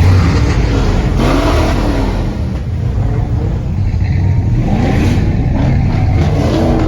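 Car engine revving loudly over a heavy exhaust rumble, the pitch rising and falling about a second in and again near the end.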